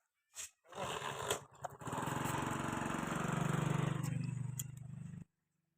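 A mini tractor's engine starting up and running, swelling to its loudest about three and a half seconds in and easing back, then stopping abruptly near the end.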